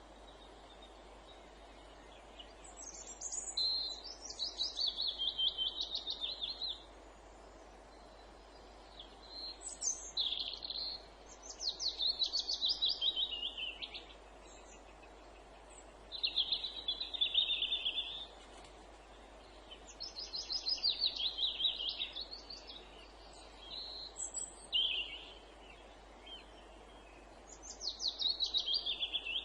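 A songbird singing a series of phrases of rapid trilled notes, each phrase a couple of seconds long and mostly falling in pitch, with short pauses between them, over a faint steady background hiss.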